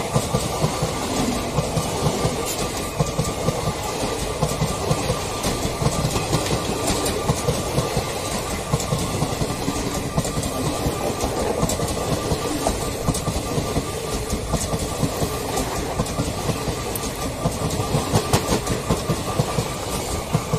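Passenger coaches of an express train passing close at speed: a continuous rumble of wheels on rail with rapid, irregular clattering over the rail joints.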